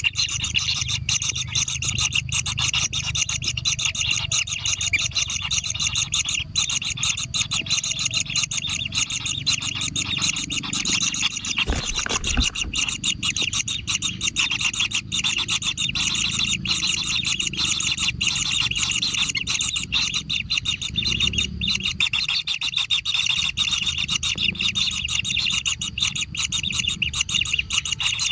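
Steady, high buzzing chorus of small animals with a rapid pulsing texture, over low rumbling noise, with a single knock about twelve seconds in.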